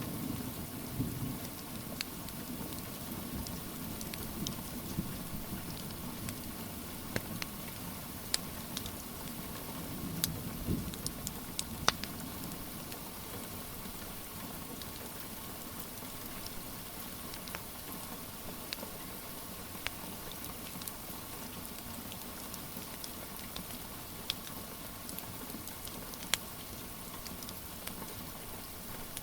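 Steady rain hiss with scattered sharp pops and crackles of a wood fire in a fireplace, and a low rumble through the first ten seconds or so.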